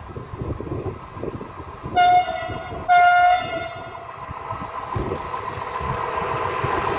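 Train horn sounding two short blasts of the same pitch, the second a little longer. After them, the rumble of an approaching train builds steadily.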